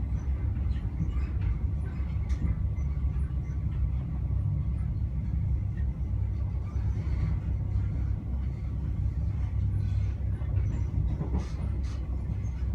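InterCity 125 (HST) train in motion heard from on board: a steady low rumble of wheels on rail, with a few faint clicks, most of them near the end.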